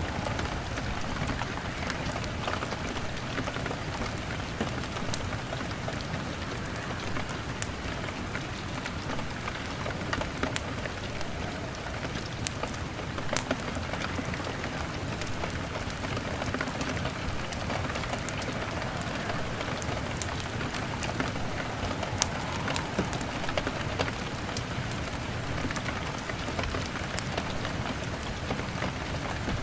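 Steady rain pattering on a window pane mixed with a crackling fire, with many small sharp ticks and pops scattered throughout.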